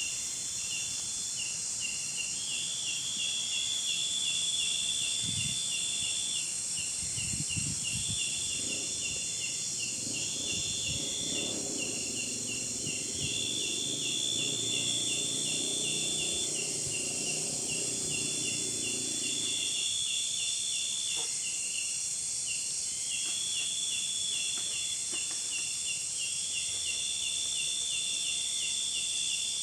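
Dense insect chorus: a fast, pulsing chirp trill with longer buzzing phrases repeating over a steady high hiss of insects. A duller, low muffled noise joins in the middle for about ten seconds.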